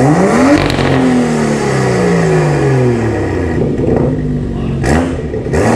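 BMW M2's turbocharged N55 inline-six, fitted with a catless downpipe, revved once hard at the start, its pitch falling slowly back toward idle over about three seconds. Two quick throttle blips follow near the end.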